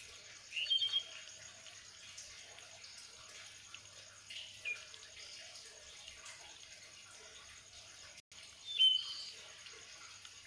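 A bird chirping three times, short high calls spaced a few seconds apart, over a faint steady room hum.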